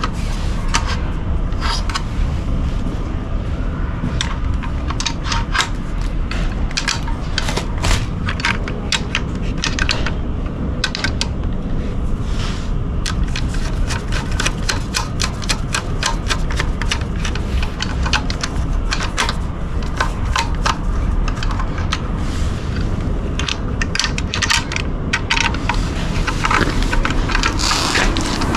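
Hand tools clicking and clinking in quick, irregular runs over a steady low rumble, during work on a motorcycle exhaust muffler.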